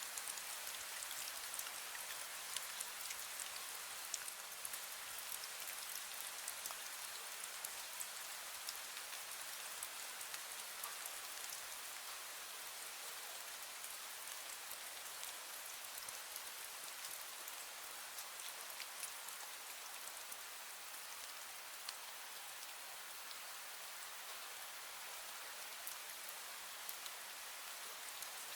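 Fine drizzle falling steadily: an even hiss sprinkled with many small drop ticks.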